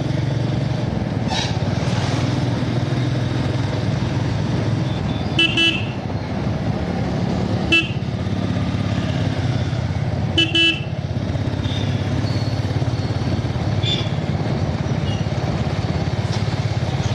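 Motorcycle riding along with steady engine and wind noise, while a horn gives short toots: a double beep about five seconds in, a single beep near eight seconds, and another double beep about ten seconds in.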